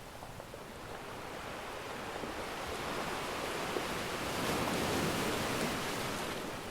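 Ocean surf: a wave swells, peaks a little past the middle and ebbs again. One small crackle-like pop sounds about halfway through.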